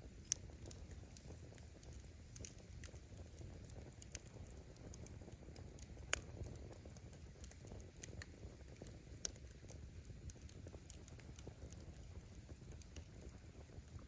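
Wood fire crackling: scattered sharp pops and snaps of firewood over a low, steady rumble of burning, with the loudest pops about a third of a second in, at about six seconds and at about nine seconds.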